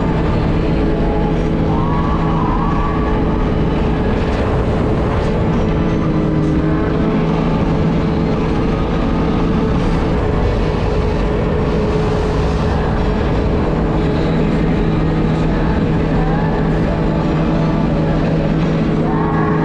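Jet ski engine running at a steady pitch, under a broad rushing noise.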